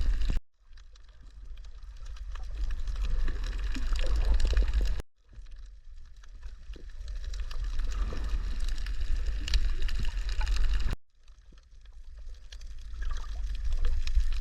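Water recorded on an underwater camera: a heavy low rumble with crackling and bubbling. It cuts out suddenly three times and swells back after each.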